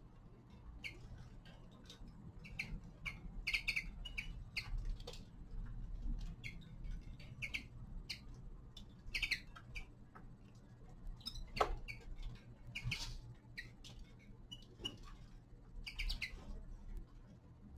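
Small cage finches giving short, scattered chirping calls while pecking at seed, with quick clicks between the calls. A low steady hum sits underneath.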